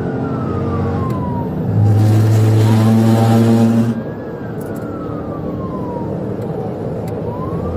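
Police cruiser siren wailing in slow rising-and-falling sweeps over heavy road and engine noise at pursuit speed. About two seconds in, a loud, low, steady blare sounds for about two seconds.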